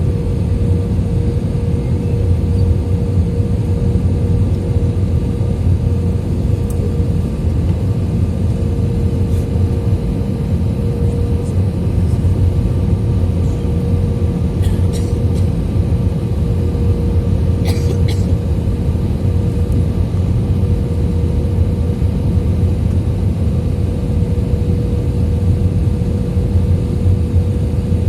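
Steady drone of an Airbus A320-200's engines and rushing air heard inside the passenger cabin, a low rumble with a steady hum on top. A few faint clicks come about fifteen and eighteen seconds in.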